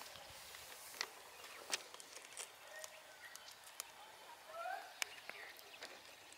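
Faint open-air ambience with a few short rising bird calls and several sharp clicks.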